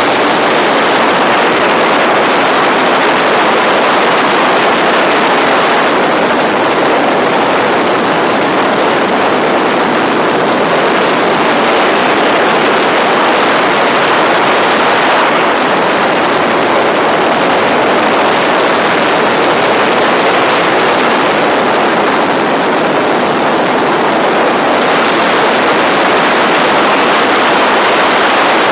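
Tour helicopter in flight, heard from aboard: a loud, steady rush of engine, rotor and air noise that holds even throughout.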